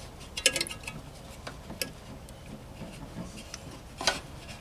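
Scattered light clicks and taps of small hardware and tools being handled while parts are fitted to a model locomotive, with a sharper knock about four seconds in.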